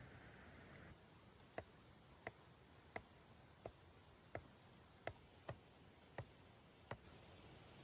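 Faint series of about nine short, sharp ticks or light knocks at a steady pace, roughly one every two-thirds of a second, over a low hiss.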